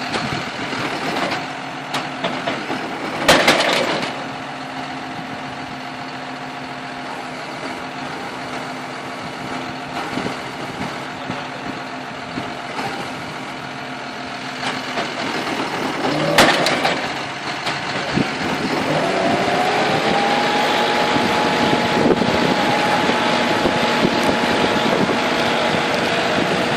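Tractor engine driving a John Deere F440R round baler, with two short loud bursts of noise about 3 and 16 seconds in. From about 19 seconds in the engine speeds up and holds a higher steady note.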